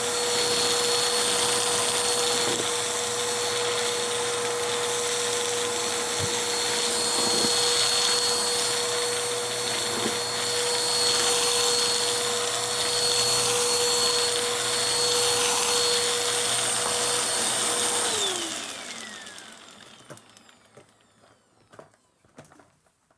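Vacuum cleaner running at a steady pitch while sucking up pieces of Styrofoam. It is switched off about eighteen seconds in, and the motor winds down with a falling whine. Faint light taps follow.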